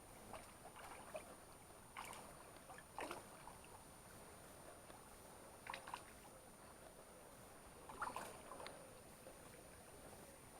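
Near silence: faint flow of a small river, broken by a few brief soft water sounds about two, three, six and eight seconds in.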